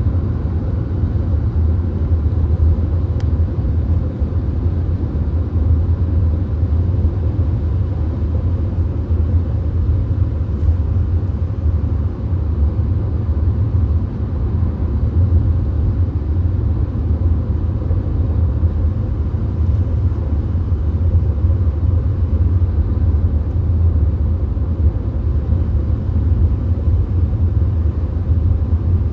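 Steady road noise inside a VW Golf's cabin at motorway speed: a deep, even rumble of tyres and drivetrain with a fainter hiss above it.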